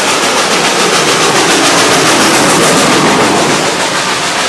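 Train running sound effect: a loud, steady rushing noise with a fast, even clatter of wheels over rail joints.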